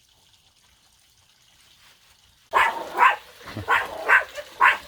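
A pond pump switched on about halfway through, water suddenly gushing and splashing, with a dog barking at it about five times in quick succession.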